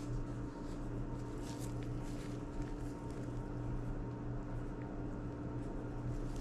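Steady low electrical hum, with a few faint, scattered small clicks from a precision screwdriver driving tiny screws into an iPod classic case.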